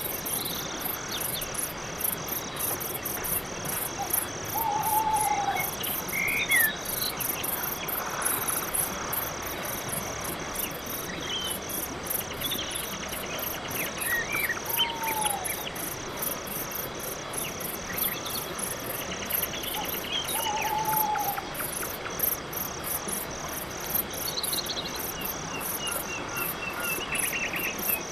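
Night-time chorus of crickets chirping in a steady, evenly pulsing rhythm. Over it, another animal gives a short arched call about three times, and there are a few scattered brief higher chirps.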